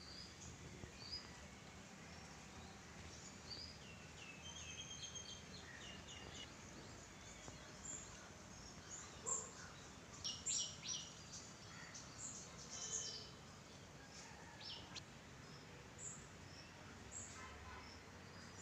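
Several birds chirping and calling faintly, short high notes scattered throughout and busiest near the middle, over a steady low background noise.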